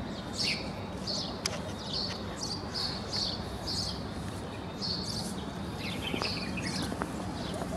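Small birds chirping over a steady background noise, with short, high, falling chirps about two a second and a few faint clicks.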